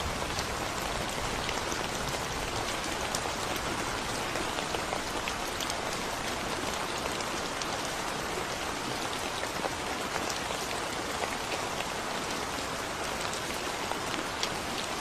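Steady rain falling on a concrete road: an even hiss with scattered sharper ticks of individual drops.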